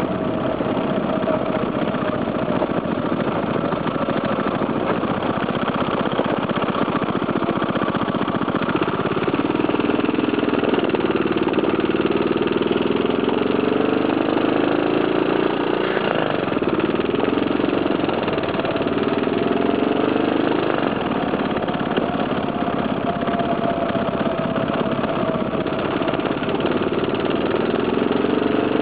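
Briggs & Stratton 5 hp single-cylinder engine on a homemade BMX-frame motorcycle, running as the bike is ridden. Its pitch rises and falls several times in the middle stretch and again near the end as the throttle is worked.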